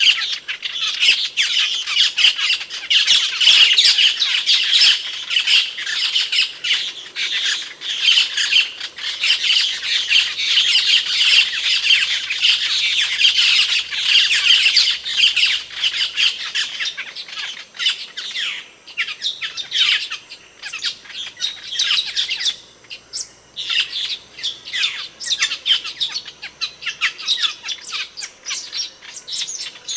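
Asian glossy starling calling: a dense, rapid run of sharp, high notes that thins out after about halfway to scattered single notes.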